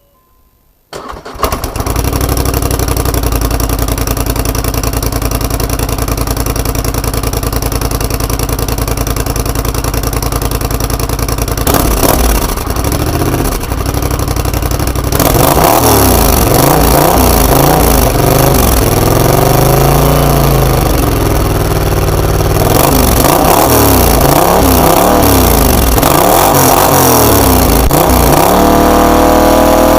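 A 1000 cc scrambler motorcycle's engine starting about a second in and idling steadily, then being revved again and again through its exhaust, the pitch rising and falling, and held at higher revs near the end.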